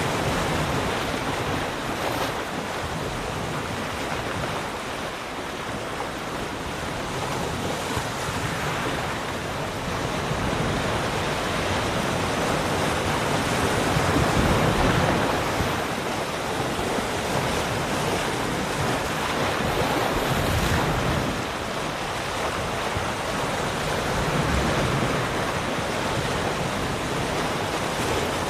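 Ocean waves breaking and washing on a shore, a continuous rushing surf that swells and eases slowly, louder about halfway through. Wind noise on the microphone mixes in.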